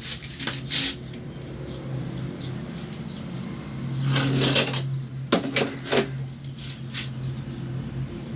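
Clatter and scraping of hard parts being handled, in several short bursts, the busiest about four to six seconds in, over a steady low hum.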